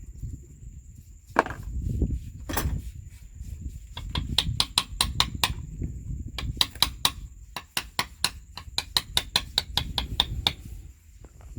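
Hammer striking metal: two heavy blows, then several runs of quick, lighter taps at about six a second.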